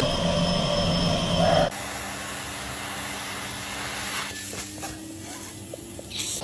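Vacuum cleaner motor running loudly with a high whine, then dropping abruptly, about two seconds in, to a quieter steady hum with a hiss.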